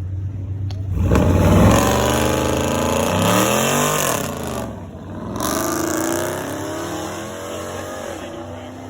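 A car engine accelerating hard, starting about a second in. Its pitch climbs, drops back at a gear change, and climbs again through the next gear.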